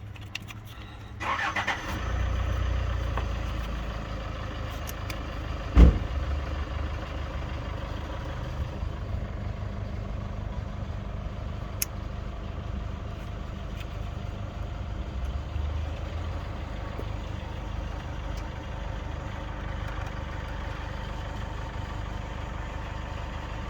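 A car engine starting: a brief crank about a second in, then the engine catches and idles steadily. A single sharp knock stands out about six seconds in.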